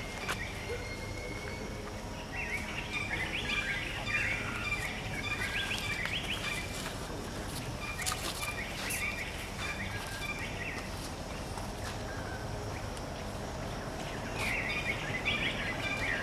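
Birds chirping in short repeated phrases, three bouts of calls, over steady outdoor background noise, with a few faint sharp clicks around the middle.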